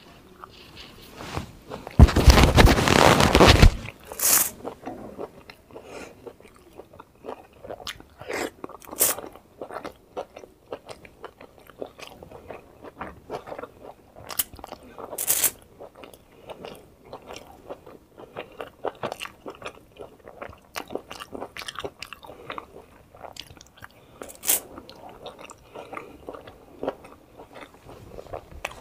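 Close-miked biting and chewing of momos (dumplings), with many short mouth clicks throughout. About two seconds in, a loud rough burst of noise lasts nearly two seconds.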